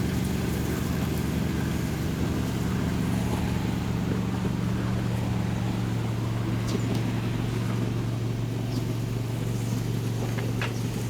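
John Deere D130 riding mower engine running steadily at an even speed.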